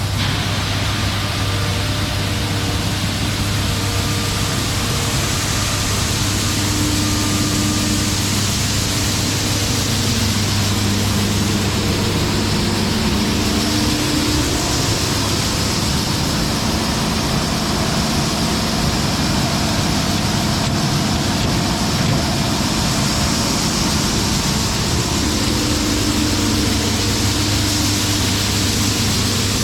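Combine harvester running steadily under load: a constant low diesel hum with a broad mechanical rush over it and no sudden changes.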